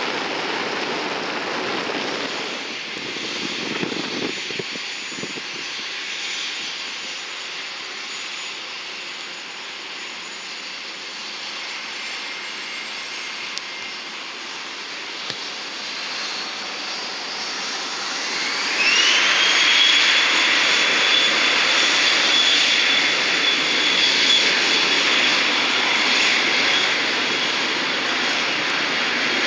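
Jet aircraft engines running with a steady rush. About two-thirds of the way in they spool up: a whine rises in pitch over a second or so, and they get louder. They then hold a loud, steady high whine with a jet roar.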